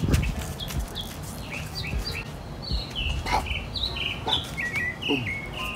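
A small songbird singing a run of short, high chirps, several a second, over low irregular thumps and rumble.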